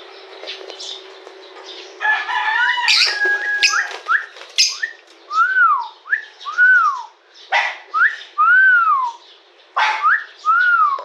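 Pet cockatiels and lovebirds in a cage calling. After a short quiet start come sharp chirps and short whistles, then a run of clear rising-and-falling whistles about once a second, mixed with sharp chirps.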